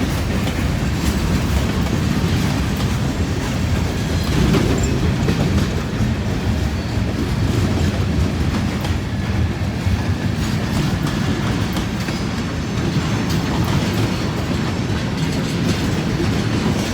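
Freight train cars rolling past at close range: a steady low rumble with a continual clickety-clack of wheels over the rail joints.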